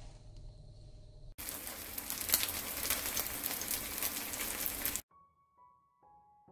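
Squid and wild chive pancake batter frying in oil in a pan: a steady sizzle with fine crackling for several seconds that cuts off suddenly. A few soft musical notes follow.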